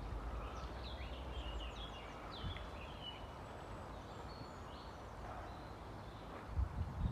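Small songbirds chirping and twittering in short quick phrases over a steady outdoor hiss, busiest in the first few seconds. A few low thumps come near the end.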